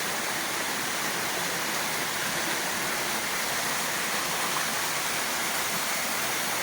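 Waterfall rushing: a steady roar of falling water splashing over rocks, with no let-up.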